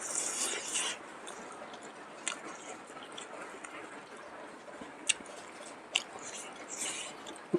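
A person chewing boiled salt pork and vegetables close to the microphone, with wet smacking and squishing. It is loudest in the first second, then goes on quieter, with a few sharp clicks of the mouth and teeth.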